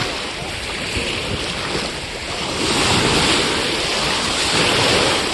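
Sea waves washing up on a beach, with wind rumbling on the microphone; the surf swells loudest about halfway through.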